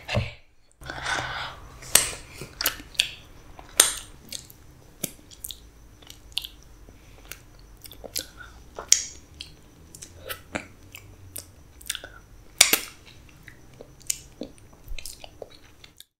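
Mouth sounds of someone chewing soft black forest cake and cream, with irregular sharp wet smacks and clicks of the lips and tongue.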